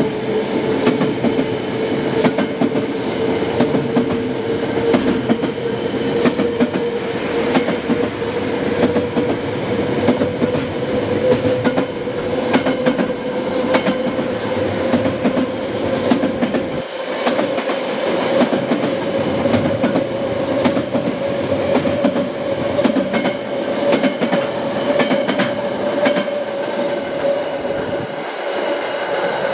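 Container wagons of a freight train rolling past close by, steel wheels clicking over the rail joints. Under the rumble is a steady tone that rises slowly in pitch.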